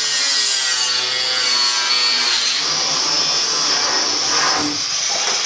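A power tool with a cut-off wheel cutting through the tub's steel panel. It makes a steady, high-pitched whine that dips a little in pitch as it bites into the metal, then holds.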